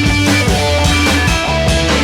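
Rock band recording playing an instrumental passage: electric guitar and bass over a steady drum beat.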